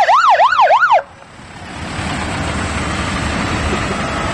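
Fire truck siren sounding a rapid up-and-down wail, about three sweeps a second, which cuts off suddenly about a second in. The truck's engine then rumbles on, growing louder.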